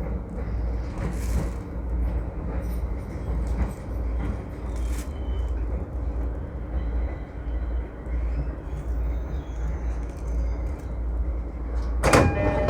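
A train standing at a station platform, with a steady low rumble and hum. A sudden loud noise comes near the end.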